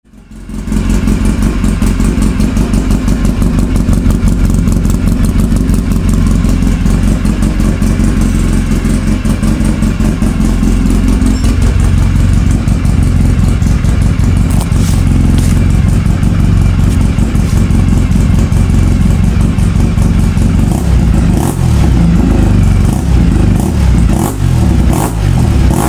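Polaris Sportsman 800 ATV's big-bore twin-cylinder engine running through an aftermarket Swamp XL exhaust, starting up and then idling loudly. The idle rises a little about halfway through, and near the end there are uneven throttle blips.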